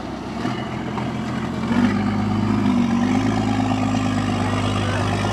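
Truck engine running, then climbing in revs and getting louder about two seconds in, and holding at the higher speed with a slightly wavering note.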